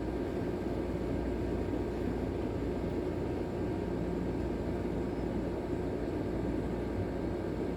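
Steady rush of storm wind and rain heard from indoors through a window, with a low rumble and a faint steady hum running under it.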